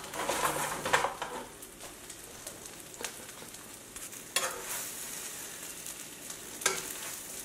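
Seafood scallion pancake (haemul pajeon) sizzling steadily in oil in a frying pan. A spatula scrapes or taps against the pan a few times, most sharply about four and a half seconds in and again near the end.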